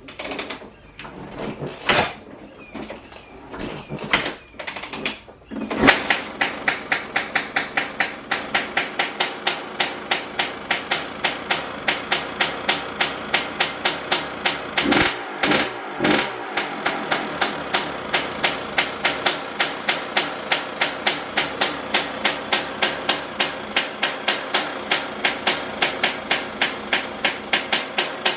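Honda CR125R two-stroke dirt bike engine being kick-started after a top-end rebuild: a few irregular kicks, then it catches about six seconds in and keeps running with a sharp, even popping about three times a second.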